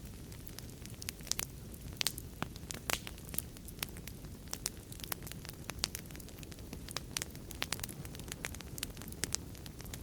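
Fireplace fire crackling: irregular sharp pops and snaps several times a second over a steady low rumble of burning.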